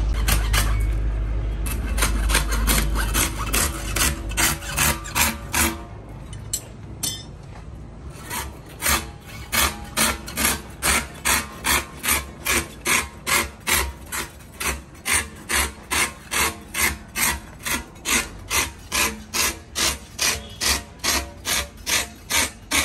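A hand tool scraping rubber on a truck tyre in steady rasping strokes, about two a second, with a low rumble in the first few seconds.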